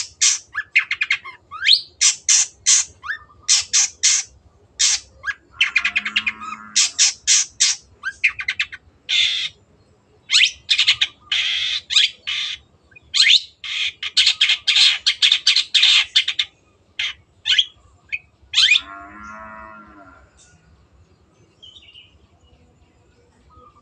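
Long-tailed shrike (cendet) singing a fast run of short, high chattering notes, with two harsher, lower calls about six and nineteen seconds in. The song fades out near the end.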